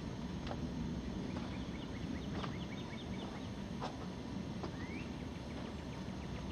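Small birds chirping over a steady low rumble: a few sharp chirps, a quick run of short chirps about a second and a half in, and one short rising whistle near the end.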